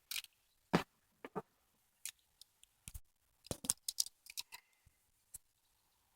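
Scattered light clicks and knocks of fireworks being handled and shifted around in a container, busiest a little past halfway.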